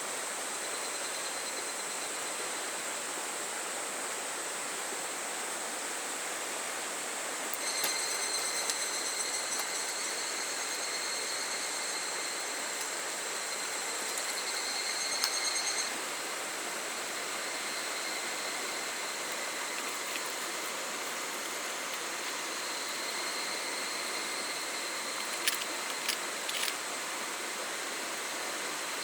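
A small river running steadily, with cicadas calling high and thin over it; a louder, nearer call joins from about eight seconds in and stops around sixteen seconds. A few sharp clicks come near the end.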